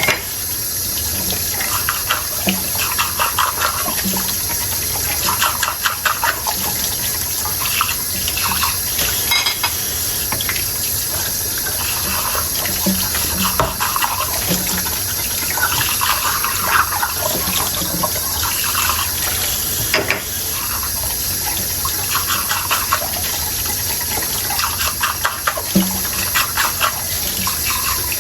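Kitchen tap running steadily into a sink while dishes are washed under it, with frequent small clinks and scrubbing rustles from the tableware.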